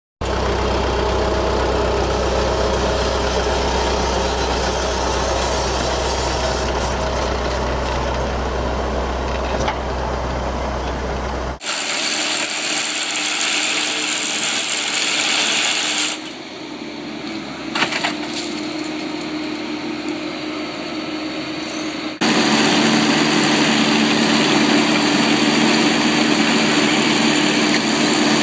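Hi-rail backhoe's diesel engine running, heard in a string of clips that cut abruptly about 12, 16 and 22 seconds in. The last stretch is the loudest and steadiest.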